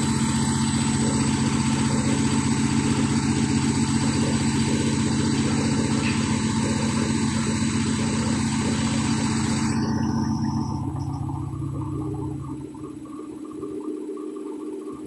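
Atlant 50S102 front-loading washing machine on its spin cycle: the motor and drum running fast with a steady hum and whine, then slowing down about ten seconds in, the sound falling away over the next couple of seconds.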